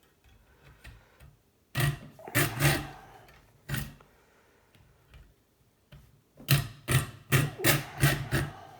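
Hand tool cutting through the metal tube of a scrap kettle heating element, in short strokes: a few separate strokes, then a quick run of about six near the end.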